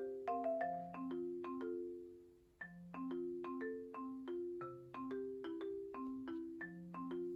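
Background music: a bouncy melody of quick struck notes on a marimba-like mallet instrument. The music fades away about two seconds in and starts a new phrase sharply about half a second later.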